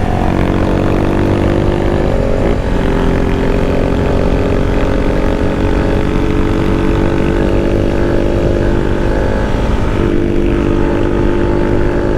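Motorcycle engine running steadily while riding, its note shifting a little in pitch a couple of times, over a heavy low rumble of wind and road noise.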